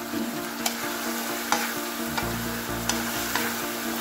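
Potatoes, bell peppers and peas sizzling steadily in a metal wok, with a spatula stirring them and knocking sharply against the pan four times.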